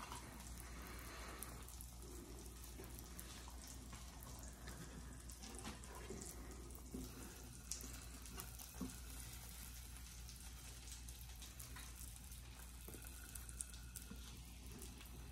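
Egg omelet with ham, onion and red bell pepper frying gently in a nonstick skillet: a faint, steady sizzle. A few light taps of a spatula against the pan come around the middle.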